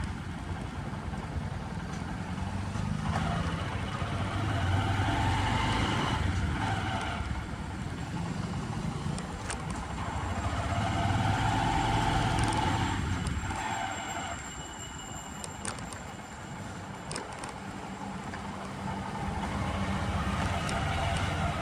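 Motor vehicle engines and road noise, swelling louder and fading back several times.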